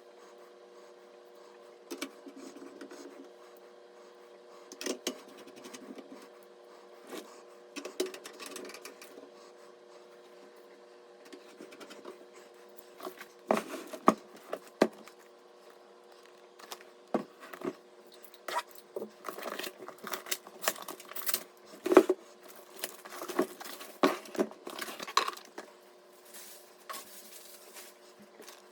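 Small hard parts being handled: irregular clicks, taps and light clatters of metal and plastic pieces, busier in the second half, over a faint steady hum.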